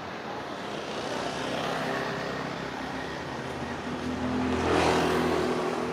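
Street traffic: a motor vehicle's engine running as it passes close by, growing louder to a peak about five seconds in, over a steady background hum of the road.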